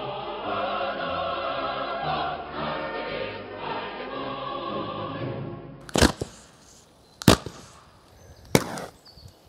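A Soviet men's choir song plays for about five and a half seconds and stops. Then come three sharp pops, about 1.3 seconds apart: small model rockets fired one after another from a pressure-driven launcher on an RC truck.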